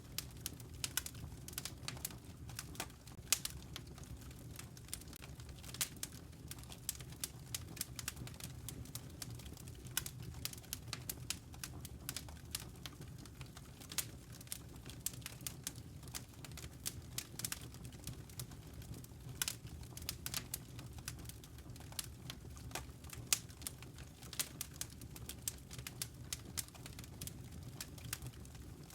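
Campfire burning: irregular crackles and sharp pops, several a second, over a steady low rumble of the flames.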